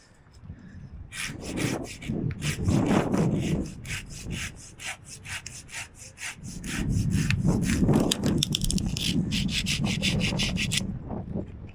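Hand pruning saw cutting through a sycamore branch in quick, even back-and-forth strokes, starting about a second in and stopping near the end.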